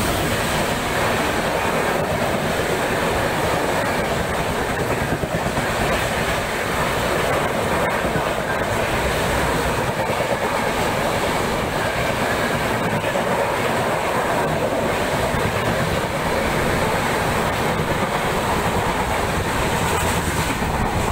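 A Rajdhani Express's LHB coaches running through the station at speed, a loud, steady rush of wheels on rail that keeps up without a break.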